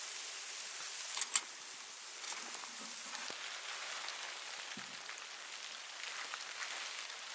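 Falling snow pattering steadily: a dense hiss of fine ticks, with one sharp click about a second in.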